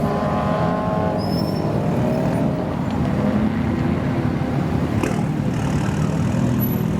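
A modified car's engine running. Its note falls in pitch over the first second or so, then settles into a steady low engine sound. There is one sharp click about five seconds in.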